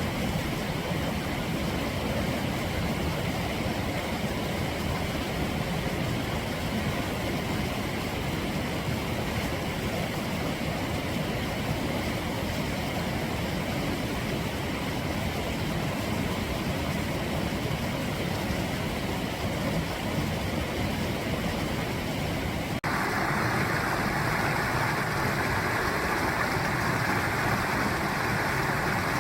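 Clear mountain stream flowing steadily. About three-quarters of the way in the sound changes abruptly to a brighter, slightly louder rush of water.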